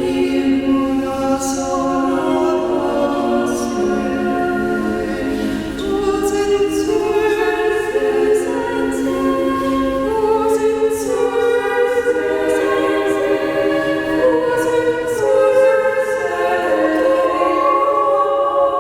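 A choir singing a hymn, several voices holding long notes together and moving from note to note at a slow, steady pace.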